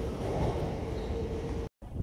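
A train running, with a low rumble and a steady hum; the sound cuts off abruptly near the end.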